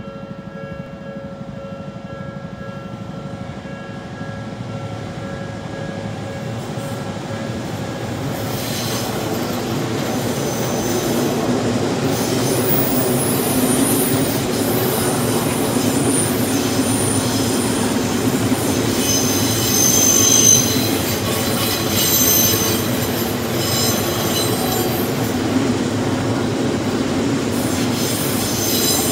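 Odakyu 3000 series electric train pulling out of the station and passing at low speed. Its running noise builds over the first ten seconds, then its wheels squeal high and thin on the track, loudest about two-thirds of the way through, with some clacking over the rails. At the start a level crossing warning bell rings in steady tones and fades out within about eight seconds.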